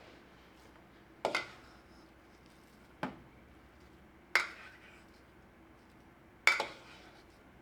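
Kitchenware knocking and clinking in four sharp separate strikes, a second or two apart. The first and last come as quick doubles, and some ring briefly like metal or ceramic.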